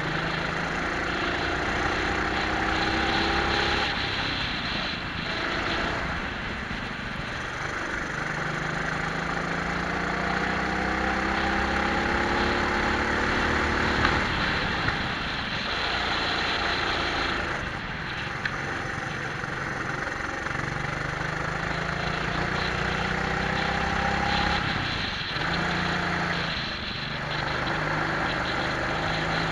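Twin-engine Prokart's engines heard from on board at speed, the pitch climbing for several seconds at a time and then dropping sharply, over and over, as the kart accelerates and brakes around the lap.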